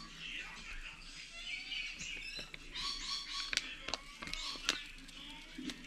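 Birds chirping and calling, with a few sharp clicks.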